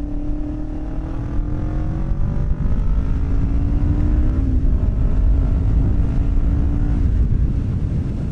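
Commuter motorcycle's engine running on the move, with wind rumbling on the microphone. The engine note climbs gently over the first few seconds, dips briefly about four and a half seconds in, then holds steady.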